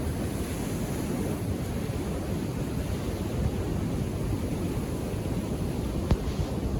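Calm Indian Ocean waves washing on a beach, a steady low rush of surf. A single sharp click comes about six seconds in.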